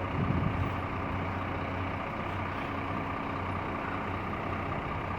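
Scania K360IB bus's diesel engine idling steadily, with a faint steady whine above the rumble.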